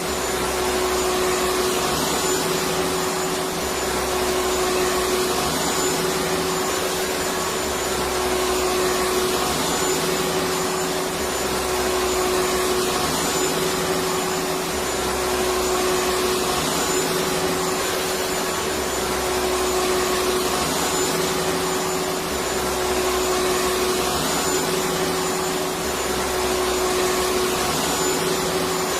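Electric vacuum cleaner running steadily: a constant rushing hiss with a steady hum-like whine, and a slight swell in the low rumble every few seconds.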